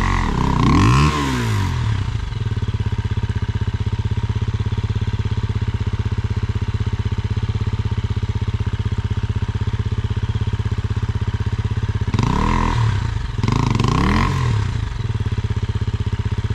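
KTM enduro dirt bike engine running at a steady idle, with quick throttle blips rising and falling in pitch near the start and twice more near the end.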